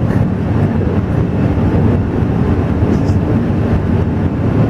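Alishan Forest Railway train running, a steady loud rumble.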